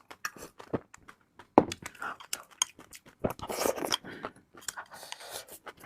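Close-miked eating: a person chewing and biting food, with many small wet clicks and crunches, one sharp snap about a second and a half in, and bursts of crackly chewing later on.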